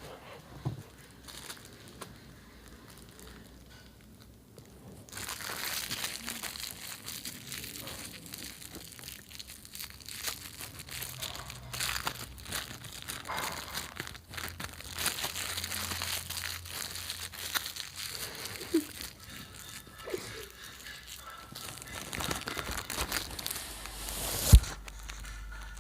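Plastic and paper food wrappers being crinkled and crumpled by hand. A dense crackling starts about five seconds in and keeps going, with one sharp loud thump near the end.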